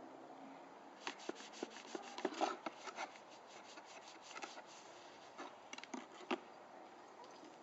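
Rubbing and scrubbing on the back of a dirty London Underground train button as it is cleaned: irregular scratchy strokes and small knocks, starting about a second in and stopping about a second before the end.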